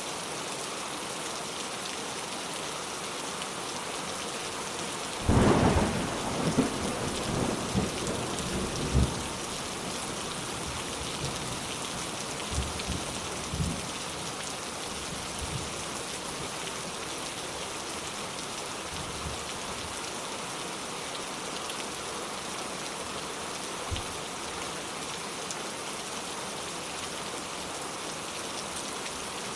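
Steady rain falling, with a sudden clap of thunder about five seconds in that rumbles and crackles for several seconds, then a few fainter rumbles.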